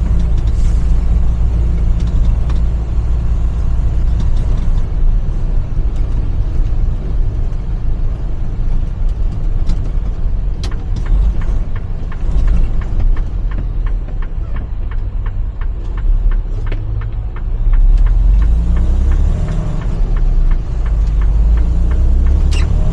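Tractor-trailer's diesel engine running, a loud steady low rumble, with a run of short regular clicks for several seconds in the middle.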